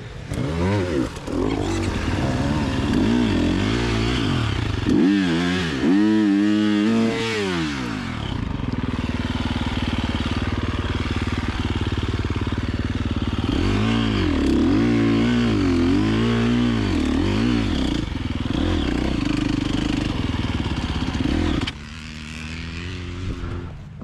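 KTM 350XC-F four-stroke single-cylinder dirt bike engine revved over and over, its pitch climbing and falling in repeated blips. The bike won't move because the hand guard has jammed the front brake lever fully on. The engine sound drops off sharply near the end.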